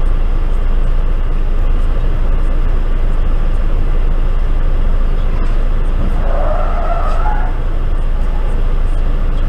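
Steady road and engine noise of a moving car heard from a dashcam, with a brief squeal about six seconds in.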